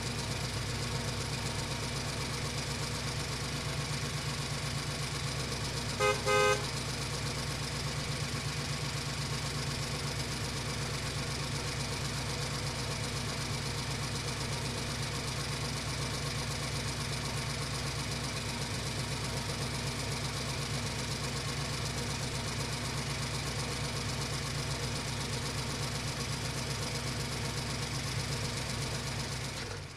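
Toy vehicle's steady engine sound, with a short double horn toot about six seconds in.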